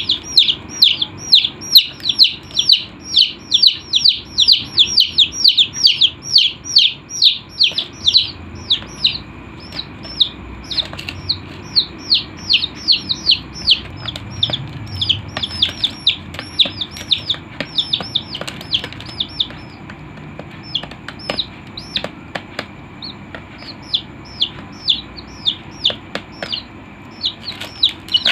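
Baby chicks peeping: a rapid run of short, high, falling peeps. The peeps come thick and fast for the first third, then grow sparser, with a short lull past the middle before picking up again.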